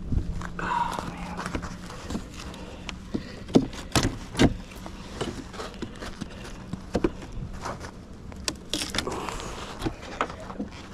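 Wooden beehive being opened and worked with a hive tool: scattered clicks, knocks and cracks as parts are pried apart and handled, the loudest knocks coming about four seconds in.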